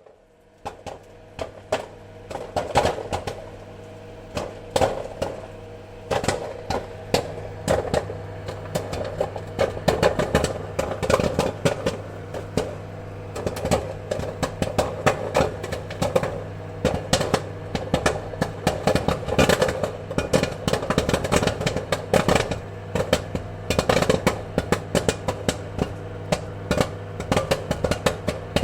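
Popcorn kernels popping: a scatter of sharp, irregular pops, sparse at first and coming thick and fast from about eight seconds in, over a steady low hum.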